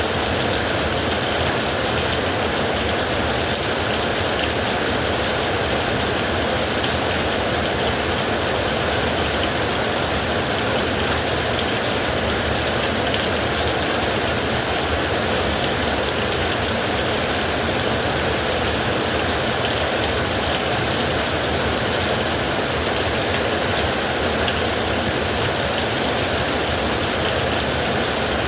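Heavy rain falling steadily on a roof: a dense, even hiss with a low rumble beneath, unchanging throughout, with no thunderclaps.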